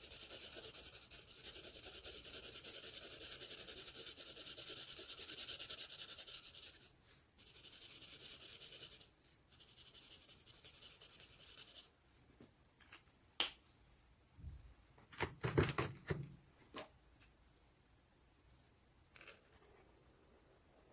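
Marker tip rubbing steadily across paper while colouring, with short breaks about seven and nine seconds in. The rubbing stops about twelve seconds in, and a few sharp clicks and taps follow.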